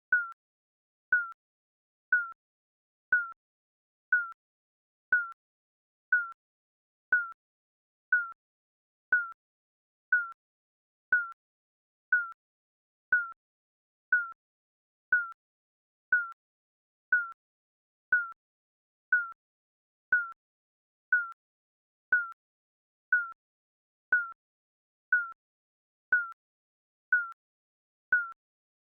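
Digital countdown timer beeping: a short, high electronic beep once a second, each beep one tone falling slightly in pitch, with silence between.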